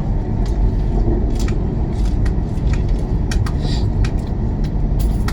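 Cabin noise of a CR400BF-Z Fuxing high-speed train running at speed: a steady low rumble with scattered light clicks and ticks.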